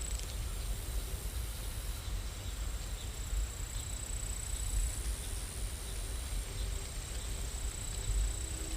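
Steady rain sound: an even hiss of rainfall with a low rumble underneath and a faint high steady tone.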